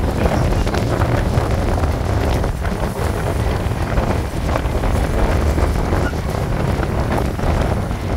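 Wind rushing over the microphone at the open door of a moving MMTS electric local train, over the steady rumble of the train running on the rails.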